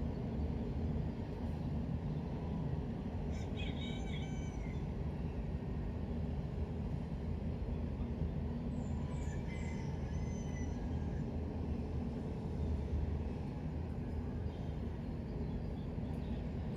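A steady low rumble of background noise, with a few birds calling twice, about four seconds in and again about nine seconds in.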